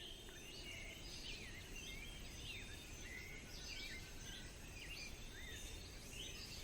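Faint forest ambience: many birds calling in short chirps that glide up and down, several a second, over a low steady hiss.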